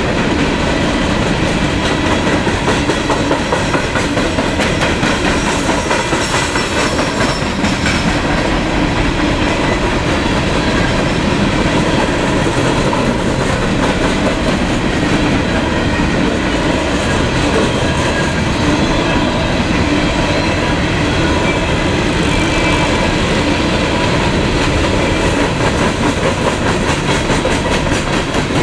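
Freight train cars rolling past close by: a loud, steady rumble of steel wheels on rail that does not let up.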